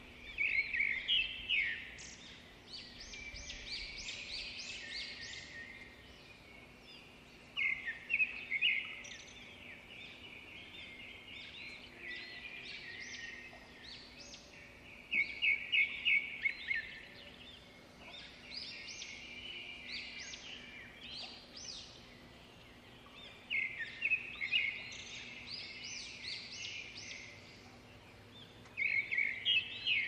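Birds singing: a loud burst of rapid chirps repeating about every seven or eight seconds, with softer chirping in between.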